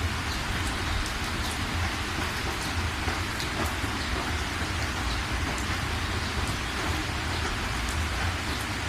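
Steady rain falling, a dense even hiss with scattered sharper drops, over a constant low rumble.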